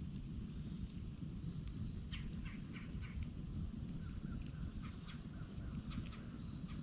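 Campfire burning: a steady low rumble with sharp crackles and pops, a cluster of them about two to three seconds in and more scattered after four seconds.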